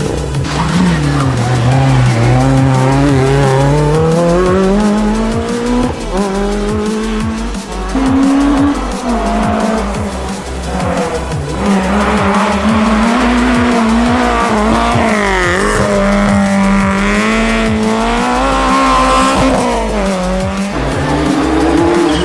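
Rally car engine revving hard through the gears, its pitch climbing and dropping again and again, with tyres squealing.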